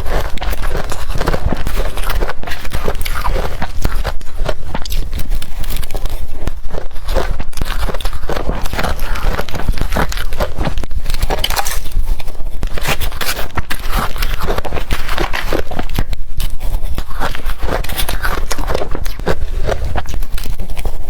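Blender-crushed ice being bitten and crunched in the mouth, a dense run of crackling crunches that continues throughout.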